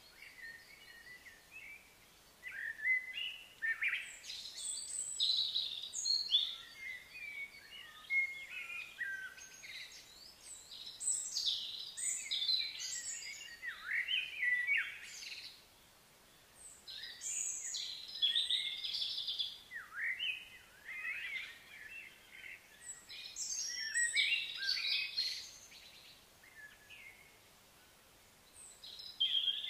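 Songbirds singing and chirping in bouts of a few seconds, several quick warbled phrases overlapping, with short quieter pauses between bouts.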